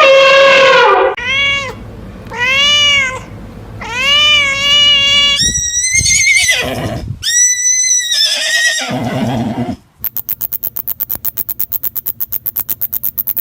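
A series of loud animal calls, each a short rising-and-falling cry, followed about ten seconds in by a fast, even run of sharp clicks.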